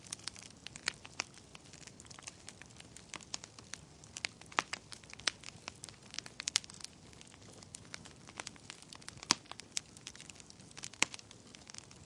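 Wood fire crackling in a fireplace: irregular sharp pops and snaps over a low, steady hiss of burning, with a few louder pops around halfway and near the end.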